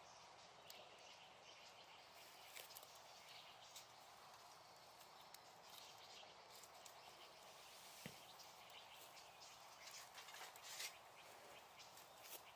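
Small wood fire crackling, with scattered sharp pops over a soft steady hiss and one stronger pop about eight seconds in.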